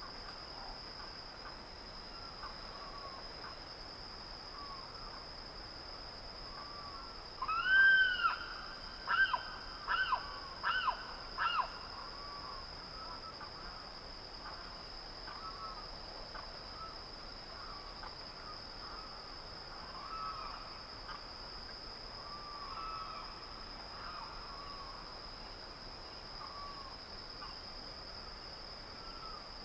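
Dawn nature ambience: a steady high insect drone under scattered soft bird chirps. About a quarter of the way in, a bird gives one long harsh call followed by four shorter ones, the loudest sounds here.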